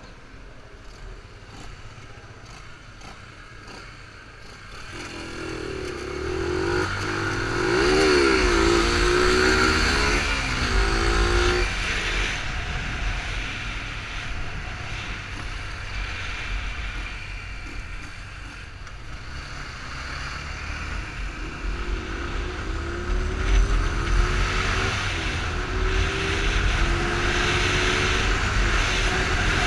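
Yamaha Fazer 250 single-cylinder motorcycle engine under way. Its pitch climbs through the gears from about five seconds in, eases off, then climbs again in the last third.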